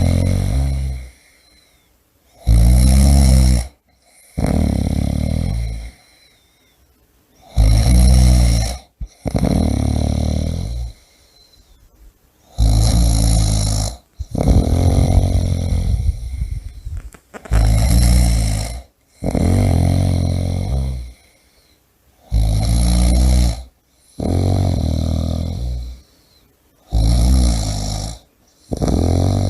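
A person snoring loudly and rhythmically, the breaths coming as paired snores with a short pause between them, about one pair every five seconds.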